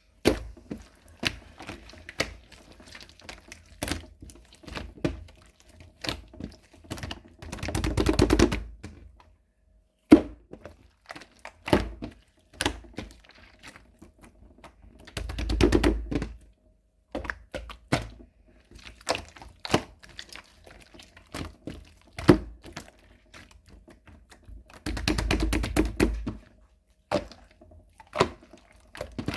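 Runny slime being squeezed and pressed by hand, giving off sharp wet clicks and pops. Three times there is a longer burst of fast, crackling popping, about eight seconds apart.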